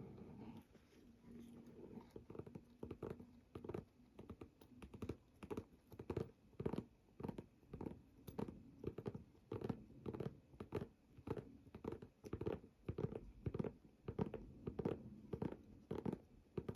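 Fingernails scratching a handbag's fabric surface in short, repeated strokes, about two a second.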